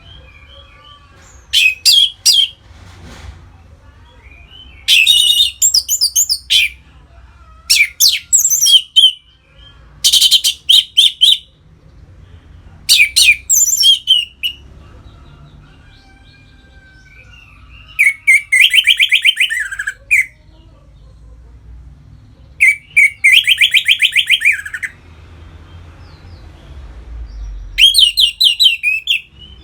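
Orange-headed thrush singing loud, varied song phrases about a second long, repeated every two to three seconds, including two fast rattling trills in the second half.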